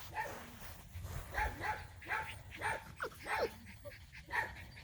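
Labrador Retriever puppies whimpering and yipping: a string of short, high cries, several in a row about half a second apart.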